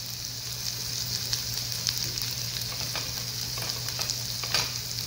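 Bheja fry (brain with onions and masala) sizzling in a non-stick frying pan over a low gas flame: a steady hiss with scattered small crackles and pops, one sharper pop near the end.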